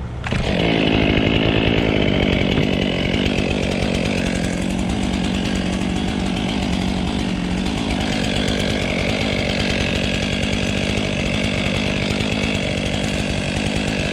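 Chainsaw running steadily at high speed, starting abruptly a moment in, as used to cut up a dead ash tree.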